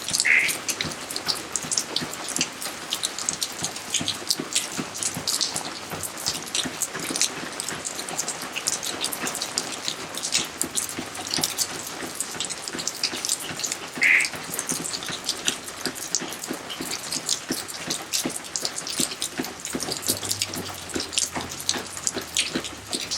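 Steady rain falling in a garden, many drops pattering and splashing on hard surfaces. Twice, about 13 seconds apart, a brief louder sound rises above the rain.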